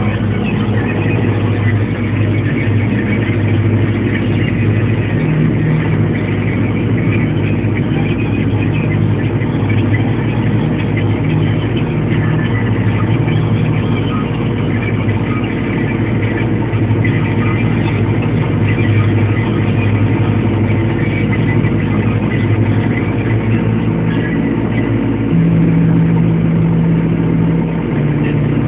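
MTZ 952 tractor's four-cylinder diesel engine running steadily under load while pulling a plough, a little louder near the end.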